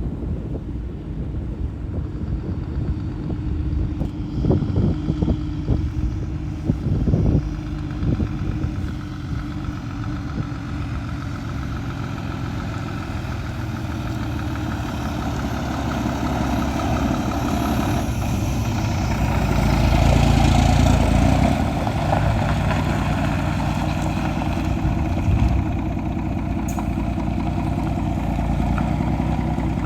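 Scania P124 truck's diesel engine running steadily, with a few sharp knocks between about four and eight seconds in. It gets louder and heavier for a few seconds around twenty seconds in, then settles back to a steady run.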